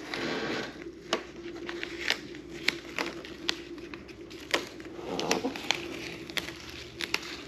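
Plastic masking sheet being pulled off and crumpled, crinkling with a scatter of sharp crackling snaps, over a steady low hum.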